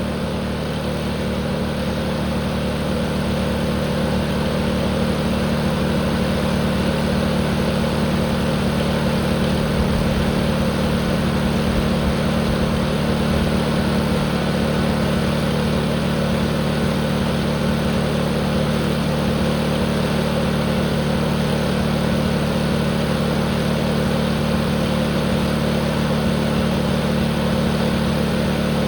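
Tractor engine running steadily under a sustained full-throttle run, its note unchanging throughout.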